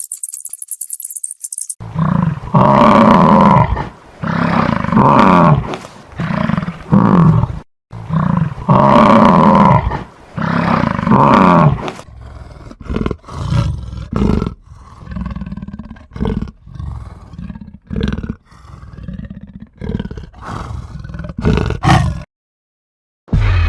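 A large animal roaring: loud, drawn-out pitched roars in two pairs, then a string of shorter, quieter grunting calls.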